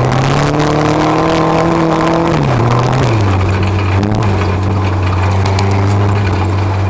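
Tuff truck's engine revving: the pitch climbs and holds high for a couple of seconds, drops off, gives one short blip about four seconds in, then settles into a steady lower run.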